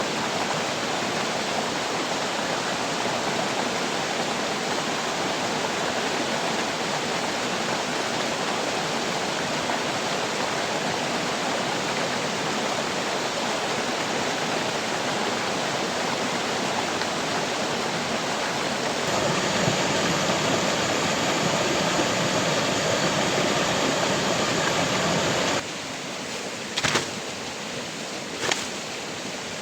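Steady rushing of water, an even hiss-like noise that jumps a little louder about two-thirds of the way through and drops abruptly near the end. A few sharp knocks follow.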